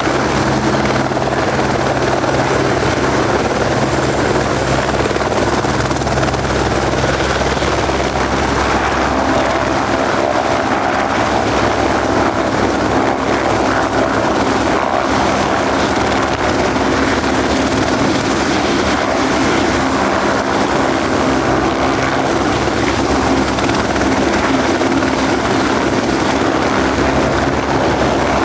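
A helicopter running close by, steady rotor and engine noise with a thin high-pitched whine over it, holding level without a clear climb-out or spool-down.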